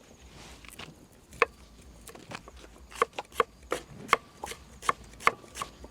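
A knife chopping on a cutting board: irregular sharp strikes, a few with a short ring, coming faster from about halfway through.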